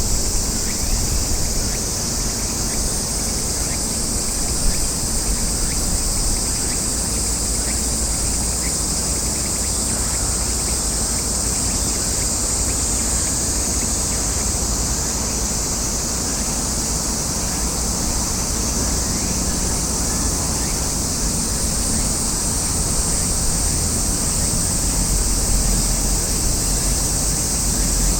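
A steady chorus of insects, most likely summer cicadas, ringing high and unbroken over a low rumble.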